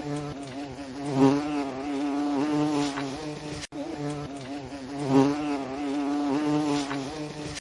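A bee buzzing in flight. The drone wavers in pitch and swells as it comes and goes. It breaks off for an instant about halfway through, then starts again.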